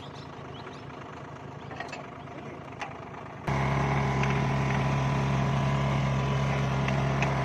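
Tractor engine running steadily, with a sudden step up to a much louder, fuller running sound about halfway through.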